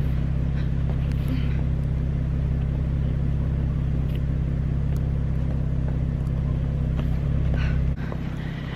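Vehicle engine idling steadily, with a low, even hum; the engine sound drops away sharply near the end.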